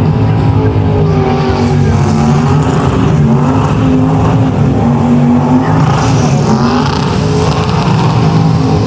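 A car engine running loud and revving up and down repeatedly.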